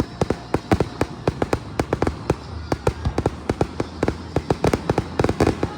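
Fireworks going off in a quick barrage of sharp bangs and cracks, several a second, that thins out at the very end.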